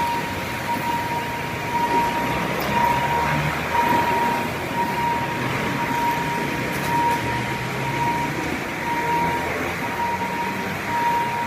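Level-crossing warning signal sounding a single high tone in regular pulses, about once a second, over steady road-traffic noise.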